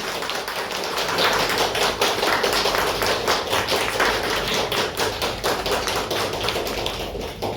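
An audience applauding: dense, many-handed clapping that eases off near the end.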